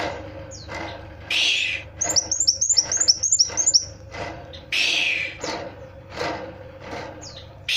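A kolibri wulung (sunbird) singing in full voice: sharp, harsh chirps broken by a fast trill of about ten high downslurred notes a couple of seconds in.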